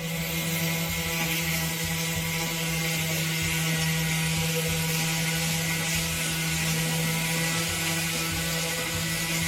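A motor running steadily with a constant hum and hiss.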